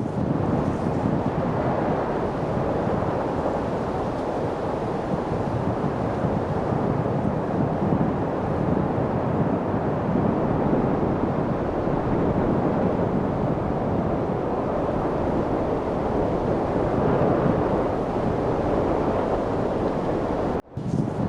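Steady wind noise, an even rushing with no distinct gusts. It cuts out for a split second near the end.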